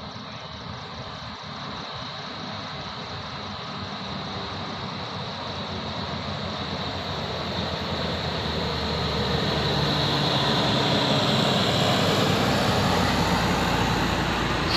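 A truck's engine running under load as the truck approaches, growing steadily louder, with a broad rush of engine and tyre noise.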